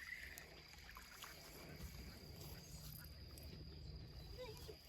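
Quiet outdoor ambience: a faint low rumble with a thin steady high tone and a few faint small clicks.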